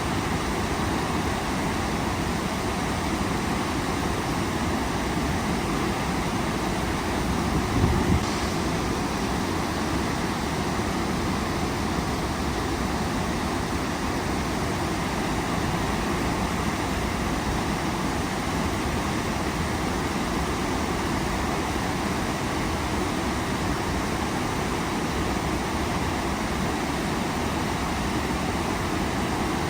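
Waterfall running: a steady rush of falling water. About eight seconds in there is a brief low bump.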